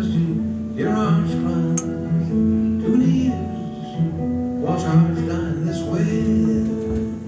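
Acoustic guitar played live: a picked instrumental passage of held bass notes with melody notes plucked over them.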